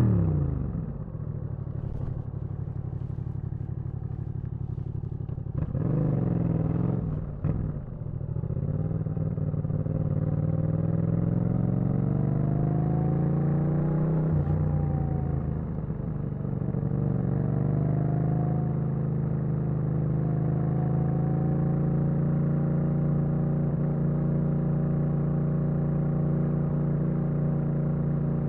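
Yamaha MT-07's parallel-twin engine under riding load. Revs drop at first, then there are two quick throttle blips about six to seven seconds in. It pulls up through the revs with a gear change near the middle, then holds a steady cruise for the last third.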